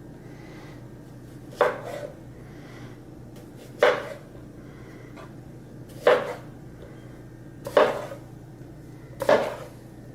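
A kitchen knife slicing a microwave-softened potato into half-inch rounds, knocking on the cutting board five times, one slice every second and a half to two seconds.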